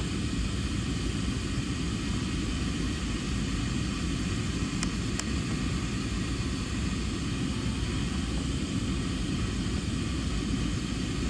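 Aeroplane noise: a steady low rumble with an even hiss over it, and two faint clicks about five seconds in.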